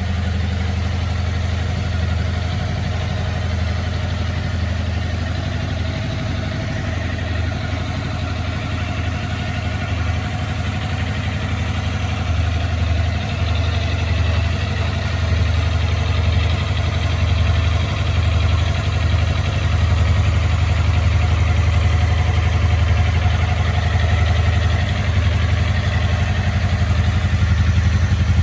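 Kawasaki Ninja 250 (EX250P) parallel-twin engine idling steadily, growing slightly louder in the second half.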